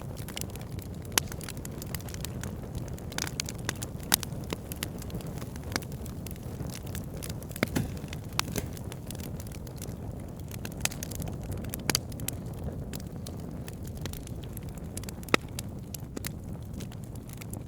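Wood fire burning: a steady low rush of flames with frequent sharp crackles and pops from the burning logs, a few pops louder than the rest.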